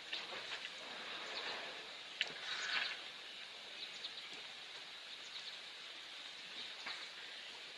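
Soft steady rain, with scattered drops pattering and clicking over an even hiss. A slightly louder patch of drops comes about two to three seconds in.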